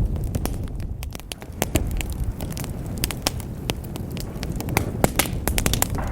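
Wood fire burning in a fireplace, with many irregular sharp crackles and pops over a steady low rumble of the flames.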